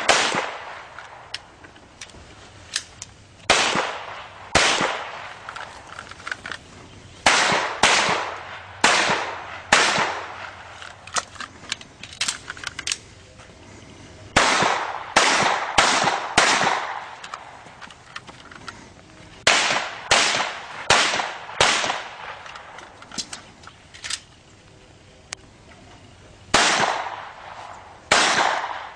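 Pistol shots fired through a timed competition stage: single shots and quick strings about half a second to a second apart, broken by pauses of a second or two. Each shot has a short echo.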